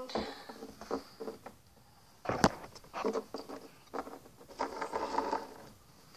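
Handling noises of small craft pieces: rustling, tapping and scraping as flowers are pushed into a cup of coffee grounds, with one sharp click about two and a half seconds in.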